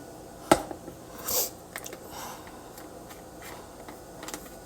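A sharp click about half a second in, then a short rustle and a few faint ticks over quiet room tone.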